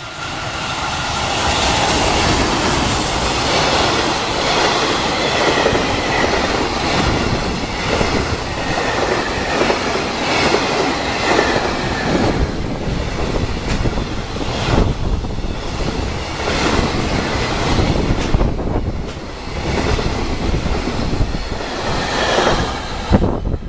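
A JR Freight container train, an EF210 electric locomotive hauling Koki container flatcars, passing at speed. A loud, continuous rumble builds over the first couple of seconds, with repeated clatter of wheels over rail joints.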